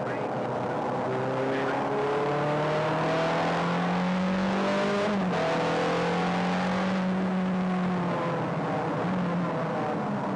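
Ferrari sports car engine heard from inside the cabin under hard acceleration, its pitch climbing steadily. About five seconds in, the pitch breaks briefly and drops. It then holds steady and eases lower near the end.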